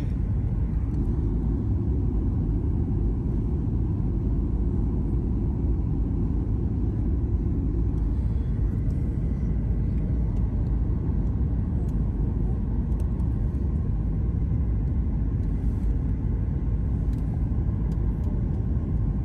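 Steady low rumble at an even level, with no change in pitch, and a few faint ticks over it.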